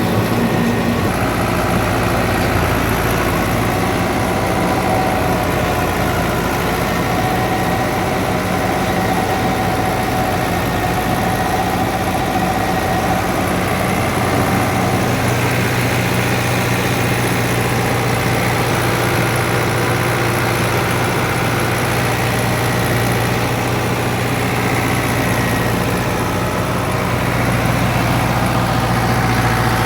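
Fiat 640 tractor's four-cylinder diesel engine running steadily while driving a wheat thresher, with a constant whine from the thresher's machinery over the engine hum.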